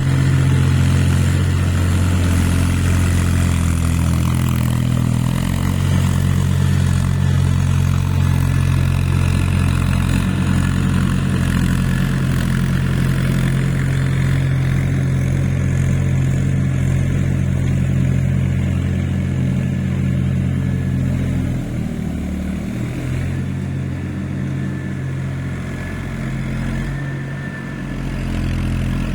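Mahindra tractor's diesel engine running steadily at a constant note; about two-thirds of the way through its pitch wavers and drops, then it settles again.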